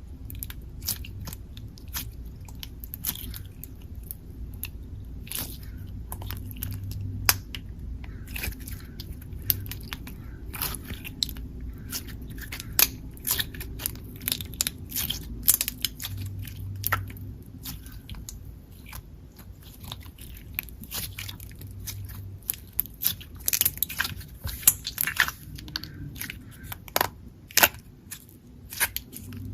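Hands squishing, stretching and poking slime, making many irregular sharp clicks and pops.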